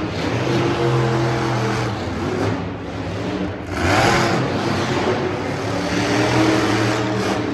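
Monster truck engine running and revving, its pitch rising and falling, with a loud burst of noise about four seconds in.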